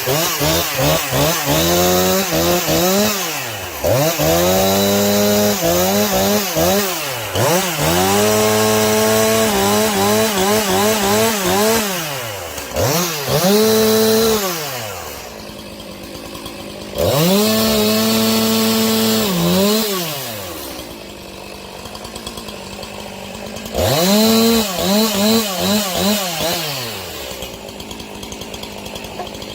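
Husqvarna 346 XP two-stroke chainsaw cutting wood: it is revved up to full throttle again and again, held for one to three seconds each time, and drops back to a low idle between cuts.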